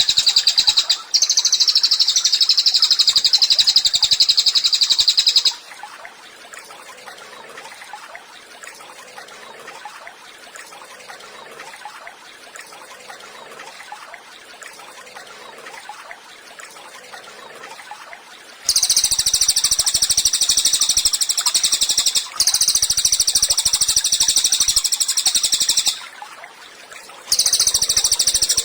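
Cililin song: long, very fast high-pitched trills of rapidly repeated notes. They stop about five seconds in, leaving only faint background for some thirteen seconds, then resume in long bursts with two short breaks.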